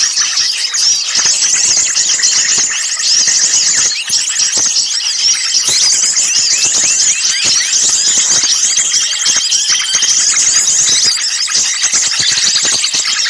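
A dense chorus of small songbirds chattering in agitation, with overlapping high-pitched chirps, rapid trills and short rising and falling whistles that never let up. This is a bird-lure call mix of 'ribut' (alarm-agitated) small-bird calls, the kind played to draw birds in.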